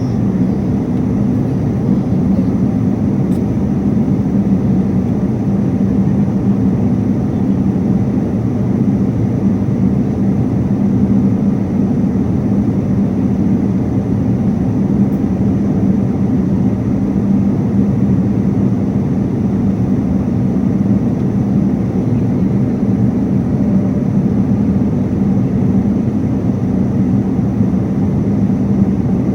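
Airliner cabin noise in flight: a continuous, even rush of engine and airflow noise with a steady low hum underneath.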